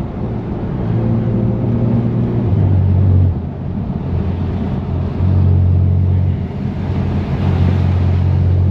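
2018 BMW M3 Competition's twin-turbo inline-six running through catless downpipes and an open valved axle-back exhaust at low road speed. Its low exhaust drone steps down and back up several times as the throttle changes.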